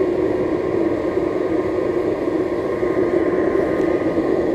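Blower running steadily, forcing air up through burning charcoal in a homemade paint-can furnace: an even rushing hum with a constant tone.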